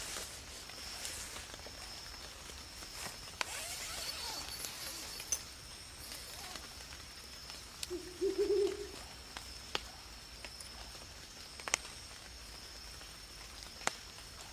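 Night-time forest ambience with a steady high insect drone. Scattered sharp clicks and snaps, and a brief low call about eight seconds in.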